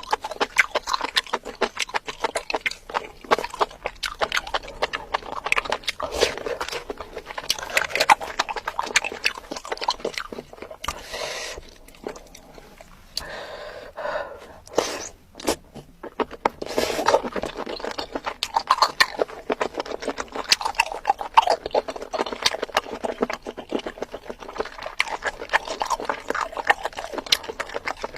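Close-miked mukbang eating sounds: rapid wet chewing and lip-smacking of spicy food, a dense run of quick clicks, with a few longer breathy sounds midway.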